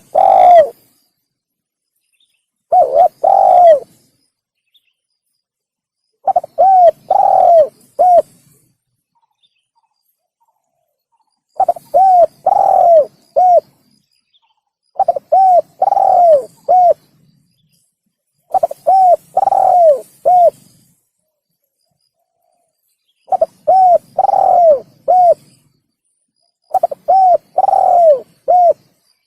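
Spotted dove (tekukur) cooing: about eight phrases a few seconds apart, each of three or four low coos with a longer note in the middle. The phrases stand out against dead silence, as from a played lure recording.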